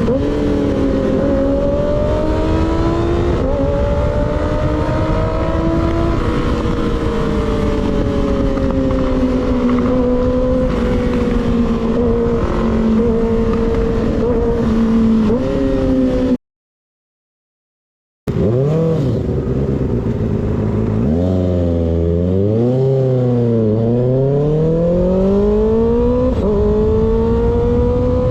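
Motorcycle engine with an unbaffled slip-on exhaust, under way with wind rush, its pitch rising and falling gently with the throttle. The sound cuts out completely for about two seconds past the middle, then comes back with the revs dipping and climbing again several times.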